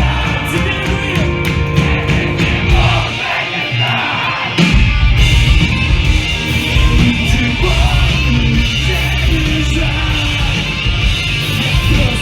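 Live punk/emo band playing loud in a hall, with distorted guitars and yelled vocals. About three seconds in, the bass and drums drop out briefly, and the full band crashes back in about a second and a half later.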